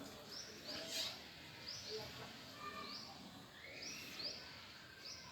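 Pet lovebirds chirping: a run of short, high chirps repeated every half second or so, with a sharp click about a second in.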